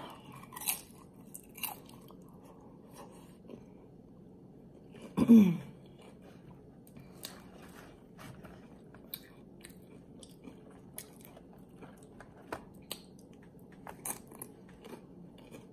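Mouth sounds of chewing crisp tortilla-chip nachos: scattered sharp crunches as the chips break. About five seconds in comes a short hummed "mm" that falls in pitch.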